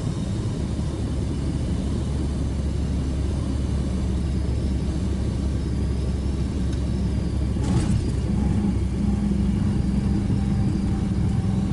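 Cessna 172 Skyhawk's piston engine and propeller droning steadily as heard in the cockpit, its low note firming up and getting a little louder about eight seconds in, with a brief click just before.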